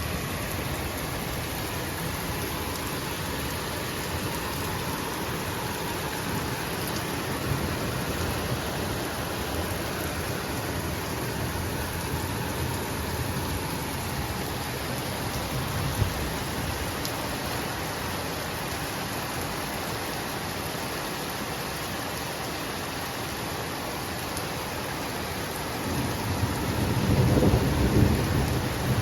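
Heavy rain pouring steadily, with a deep rumble of thunder building near the end.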